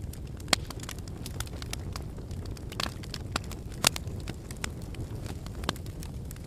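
Wood fire burning in a fireplace: a steady low rumble of flames with irregular sharp crackles and pops, the loudest pops about half a second in and just before four seconds in.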